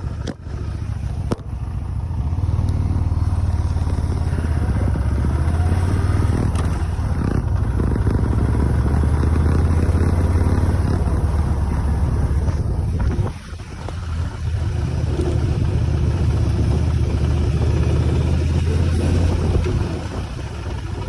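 Motorcycle engine running steadily under way, which the rider says sounds perfect. About thirteen seconds in, it briefly drops away, then picks up again.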